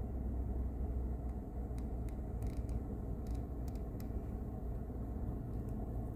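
Steady low vehicle rumble with a few faint ticks.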